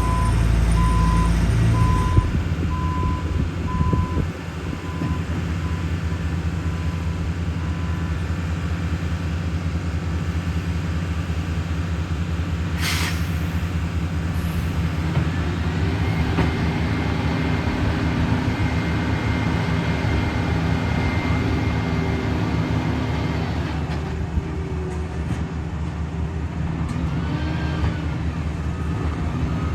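Heavy diesel paving equipment running steadily with a low rumble. A reversing alarm beeps in an even rhythm for the first several seconds and fades away, and a short air hiss like an air brake comes about halfway through.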